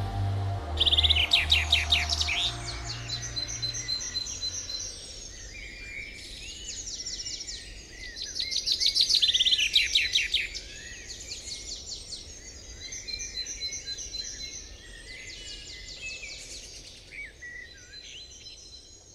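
Birds singing: high chirps and rapid trills, with rows of short repeated notes, coming back in bursts every few seconds and fading toward the end. The tail of background music dies away in the first couple of seconds.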